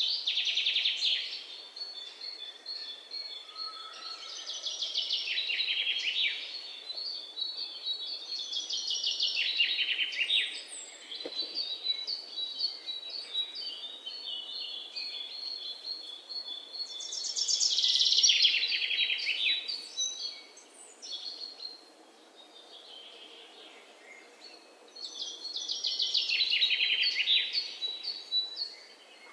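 Songbirds singing in the morning: a loud, fast trilled phrase that falls in pitch comes again every few seconds, with another bird's run of short high chirps in between.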